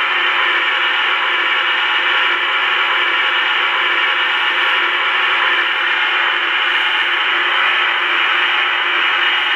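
Steady hissing from a Lionel #746 model steam locomotive running on its test run, which the owner takes to be its blowdown effect.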